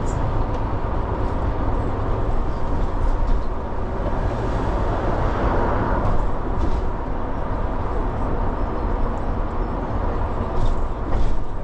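Steady low rumble of a motor vehicle running, engine and road noise, with a few faint short hisses and clicks.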